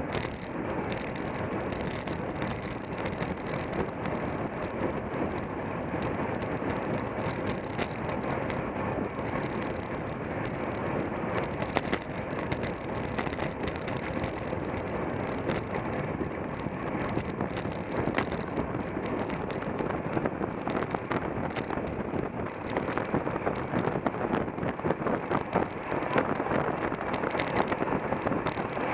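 Wind rushing over a bike-mounted camera's microphone while riding a road bicycle at race speed, with steady tyre and road noise. Frequent small clicks and rattles come from the bike and mount jolting.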